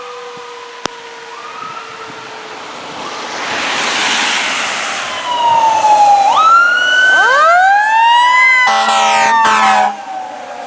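Fire engine responding with its Q mechanical siren whining down and winding back up alongside rising electronic siren wails as it passes. An air horn blast sounds about nine seconds in and cuts off sharply after about a second.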